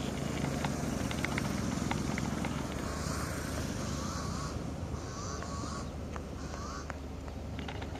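A bird gives a few short calls, starting about three seconds in and repeating twice more, over a low steady rumble of outdoor ambience.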